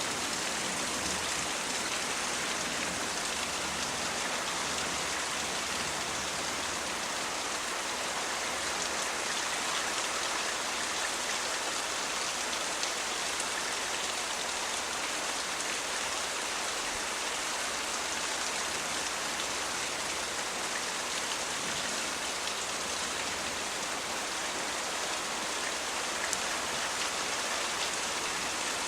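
Steady rain falling in a thunderstorm, an even hiss of many drops hitting surfaces.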